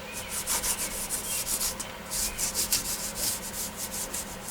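A hand roller rubbed back and forth over aluminium-foil-faced sound deadening mat, pressing it flat onto the van's sheet-metal wall: quick repeated scraping strokes, about three a second.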